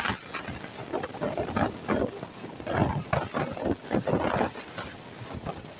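Passenger train running at speed, heard at an open coach window: the rumble of the wheels on the track mixed with uneven gusts of wind buffeting the microphone.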